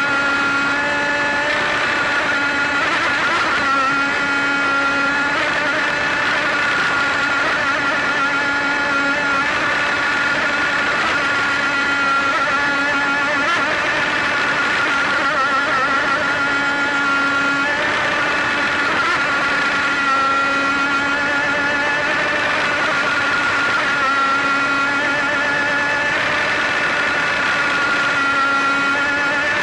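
RC outrigger racing boat's motor running steadily at speed, heard close up from on board, a high droning note that wavers slightly in pitch over water rush.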